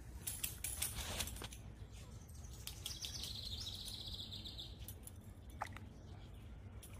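A bird gives a high trill lasting about two seconds in the middle, over a steady low rumble. There is a scatter of sharp clicks and taps in the first second and a half, and another single tap near the end.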